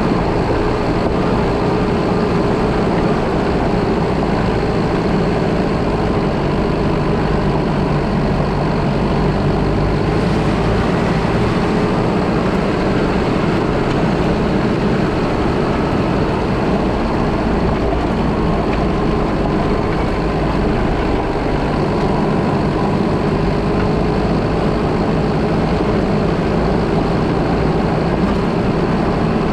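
Car engine running steadily with tyre and road noise while driving, picked up by a vehicle-mounted action camera; the sound stays even throughout.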